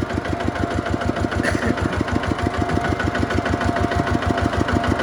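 Tractor's diesel engine running steadily with an even, fast beat of about nine pulses a second.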